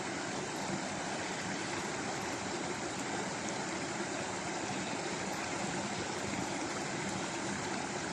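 Flowing stream water: a steady, even rushing of running water with no breaks.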